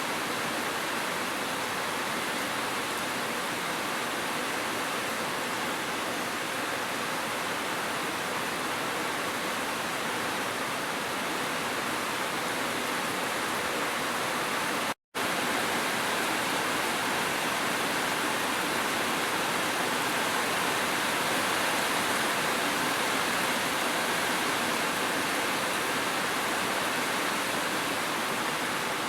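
Steady rush of falling water, gentle rain mixed with a waterfall, which cuts out for an instant about halfway through.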